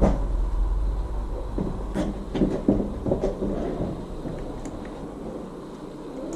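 A few light knocks and clicks over a low rumble that fades away about four seconds in.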